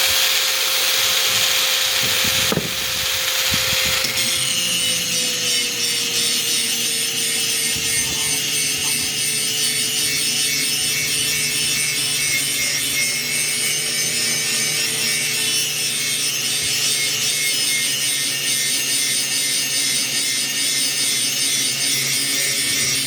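Power grinder grinding the edge of an axe head: a continuous high, hissing grind of the abrasive on steel over the motor's steady hum. The motor's pitch sags slightly about five seconds in.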